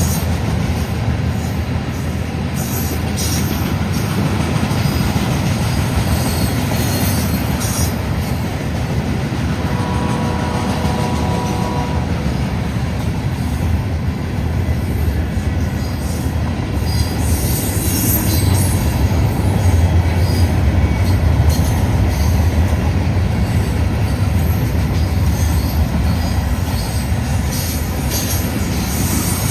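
A heavy freight train loaded with steel slabs rolling past, its wheels rumbling steadily on the rails. A faint, brief tone comes in about ten seconds in.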